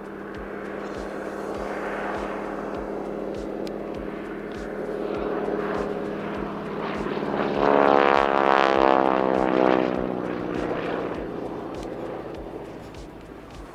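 Junkers F13's Pratt & Whitney Wasp Junior radial engine and propeller on a low flyby: the sound builds steadily, is loudest about eight to ten seconds in, with the pitch sweeping as the aircraft passes, and then fades away.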